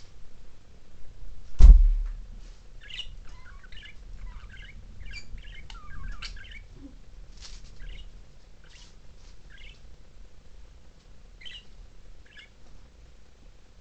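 Pet budgerigars chirping and warbling in short, scattered bursts of calls, with one loud thump about two seconds in.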